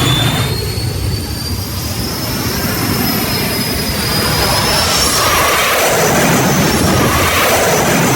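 Jet engine mounted in a mini truck running, its high turbine whine climbing slowly in pitch as it spools up. A rushing roar grows stronger about halfway through.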